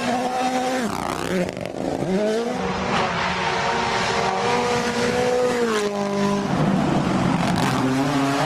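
Rally car engine at full throttle, its pitch dropping and climbing again several times through gear changes and lifts. About two-thirds through the engine note gives way briefly to a rushing tyre noise before it climbs again.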